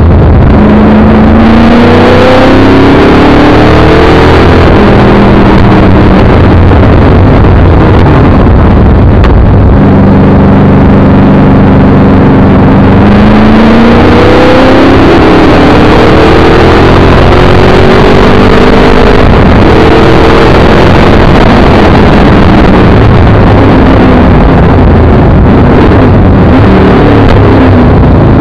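Chevrolet 383 small-block V8 of a TVR Tuscan driven hard on track, heard from inside the car: the engine note climbs under acceleration and falls back at each gear change, several times over. Very loud throughout, near the top of the recording's range.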